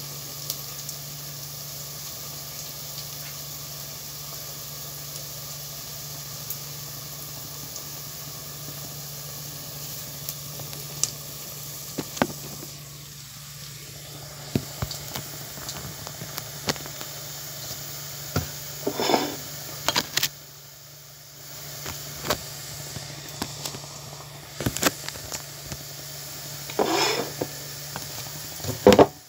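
Chicken and onions sizzling in a steel pot with a steady hiss, and a wooden spoon now and then stirring, scraping and knocking against the pot; several louder scrapes and clinks come in the second half.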